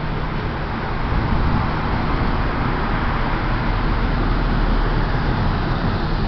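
Distant thunder rolling: a deep rumble that swells over several seconds and then eases, under a steady rushing noise.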